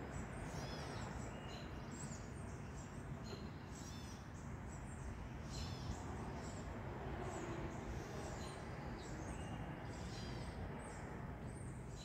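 Birds chirping in short, high, sweeping notes, repeated irregularly throughout, over a steady low background rumble.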